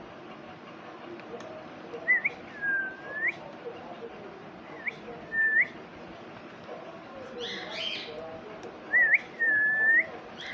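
Parrot whistling clear, pure notes in three short phrases, each a quick rising chirp followed by a longer swooping note, with a brief rougher call between the last two.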